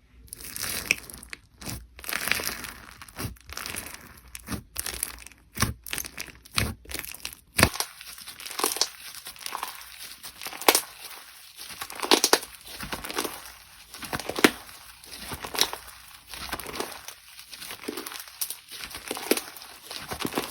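Slime being handled by hand, crackling and crinkling as it is squeezed. Sharp clicky pops come in the first few seconds, then squishy presses about once a second.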